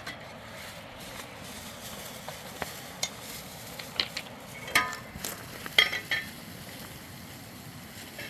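A few sharp, ringing clinks of metal, like a utensil striking a pot, over a steady hiss.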